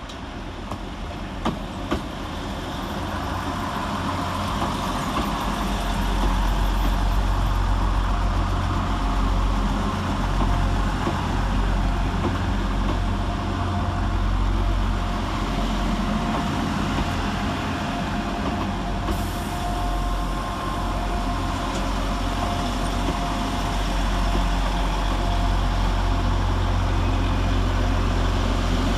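Train running at a station platform: a continuous low engine rumble with a few held tones, growing louder over the first few seconds and then holding steady.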